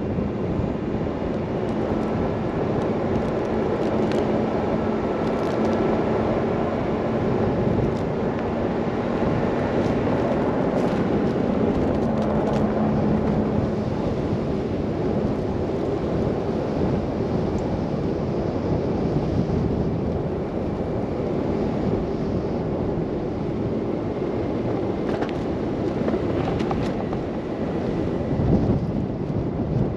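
Car driving through a snow blizzard: a steady rumble of tyres, engine and wind, with a faint even hum that fades out about halfway through and a few light ticks now and then.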